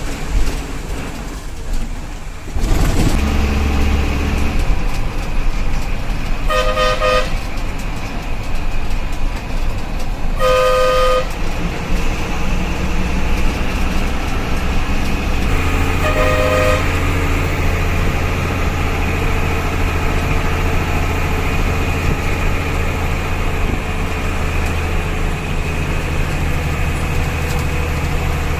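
Tata bus engine running under way, heard from inside the bus, its low rumble growing stronger twice. A vehicle horn sounds three short times in the middle of the stretch.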